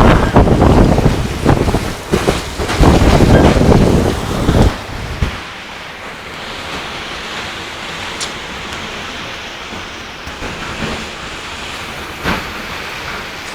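Strong wind buffeting the microphone in loud, rumbling gusts, dropping about five seconds in to a steadier, quieter rush of wind.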